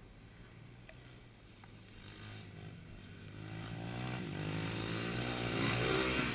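Motocross dirt bike engine, its revs rising and falling, growing louder from about two seconds in.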